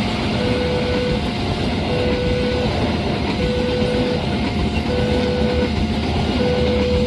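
A train running past with a steady rumble, while the level-crossing warning alarm keeps sounding a two-note high-low chime, about once every one and a half seconds.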